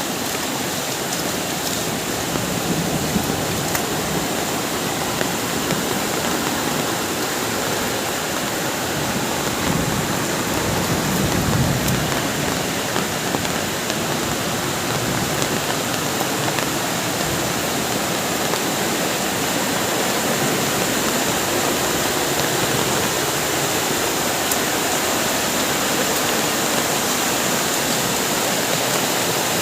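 Heavy rain pouring down steadily, with strong wind; the wind gusts a little stronger about ten seconds in.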